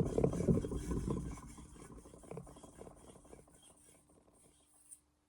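Steel knife blade being rubbed across a whetstone in quick scraping strokes, loudest at first and fading away, with a single click near the end.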